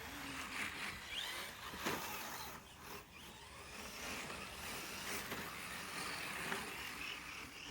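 Electric radio-controlled rally cars (Carten T410) racing on the track: a steady hiss of motors and tyres, with a brief rising motor whine about a second in and a few sharp knocks.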